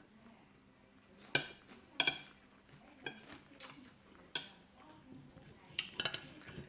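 Metal cutlery clinking against plates and bowls during a meal, in a series of sharp, ringing clinks at uneven intervals.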